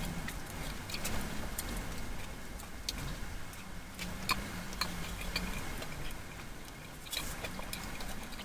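Irregular small clicks and ticks of eating, from biting, chewing and handling an orange cranberry muffin, over a faint steady low hum.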